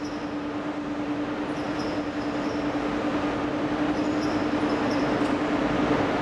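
Berlin S-Bahn electric train approaching along a curved track: a steady hum with rolling noise that grows louder as it nears, with faint high squeaks on and off.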